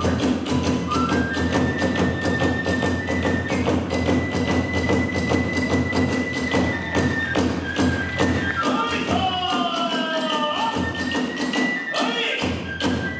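Kagura hayashi: a bamboo flute holding long high notes, with some sliding phrases near the end, over fast, steady strikes of drums and hand cymbals.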